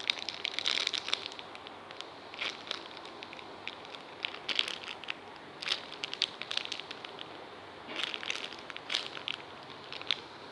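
Plastic packaging crinkling and crackling in short spells every second or two as squishy toys are picked up and handled.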